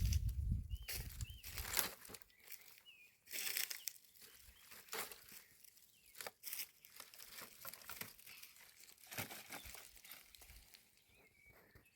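Irregular rustling and crackling, like material being handled, coming at uneven intervals, with a few faint bird chirps.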